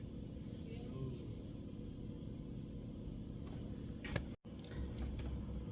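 Faint, steady low background hum with no speech, broken by a single sharp click about four seconds in and a momentary cut-out just after.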